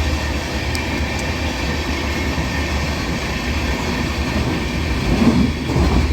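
Passenger train running, heard from inside the carriage: a steady low rumble with the noise of wheels on rails, and a louder patch about five seconds in.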